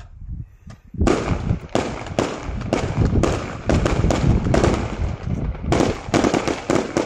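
Aerial fireworks going off: after a quiet first second, a rapid run of sharp bangs, about two or three a second, as shells burst overhead.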